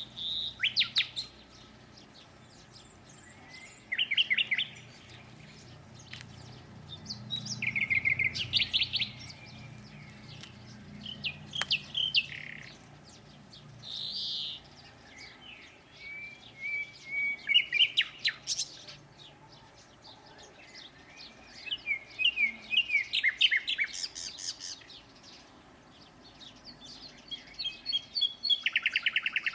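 Songbirds singing in short, high phrases every few seconds, several of them fast trills of repeated notes.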